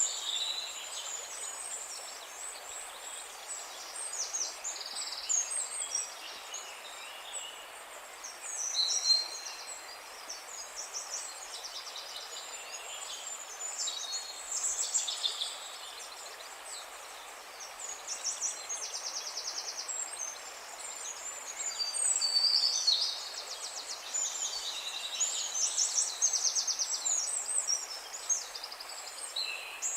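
A chorus of songbirds, many overlapping chirps, whistles and fast trills, going on without a break over a faint steady hiss.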